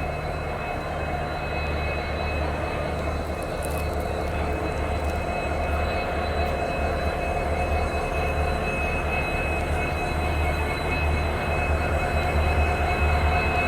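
WDP-4 diesel-electric locomotive idling: a steady low pulsing rumble with a constant high whine over it, growing gradually louder toward the end.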